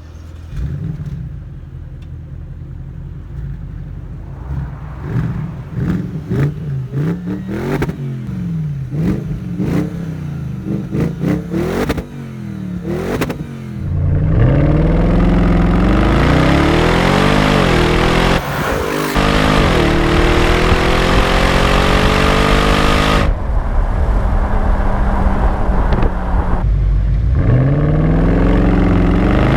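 Bentley Continental GT V8 S's twin-turbo 4.0-litre V8 exhaust. For the first dozen or so seconds the engine is revved in a series of quick blips. About halfway through it launches hard and gets loud, the pitch climbing in long pulls that drop back at each upshift, then climbing again near the end.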